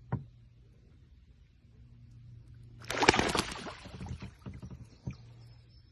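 A freed female wood duck takes off about three seconds in: a short loud burst of splashing and rapid wing flaps, trailing off into a few scattered flaps and drips.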